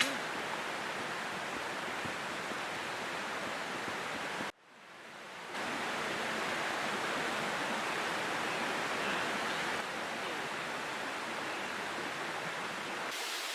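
Steady rushing of a creek, an even hiss of flowing water. It cuts out abruptly about four and a half seconds in and comes back over about a second.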